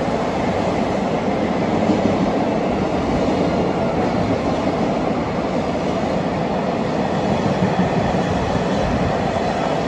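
Freight train of container flat wagons rolling past at speed, a steady unbroken noise of steel wheels running on the rails.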